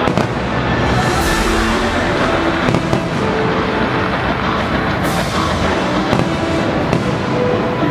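Aerial firework shells bursting in a few sharp bangs, over loud music with sustained tones.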